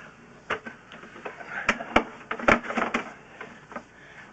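Handling noise: about ten irregular sharp clicks and knocks over a faint hiss.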